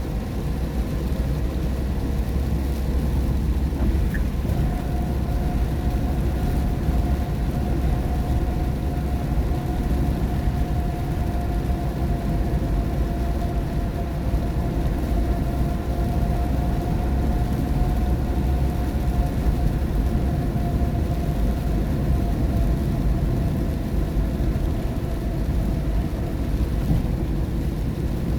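Steady road noise inside a car at highway speed on a rain-wet road: a continuous low rumble of tyres and engine with water hiss. A faint steady hum joins about four seconds in and fades near the end.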